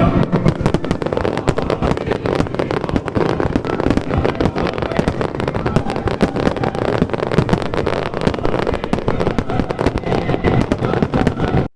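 Fireworks display: a dense, continuous crackle of many quick small bangs, as from crackling shells going off together.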